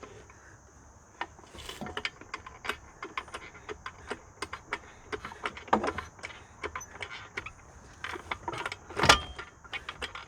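A floor jack being worked under the swing arm: quick, irregular metallic clicks and rattles, with one loud metal clunk about nine seconds in.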